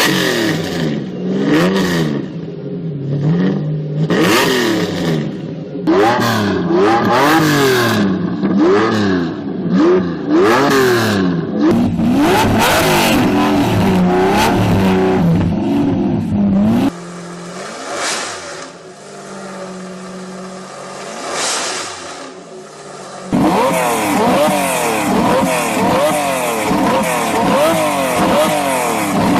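Lamborghini Diablo V12 engine revved over and over, its pitch rising and falling in quick blips. About 17 seconds in it drops suddenly to a quieter, lower running sound, and about 23 seconds in the loud revving starts again.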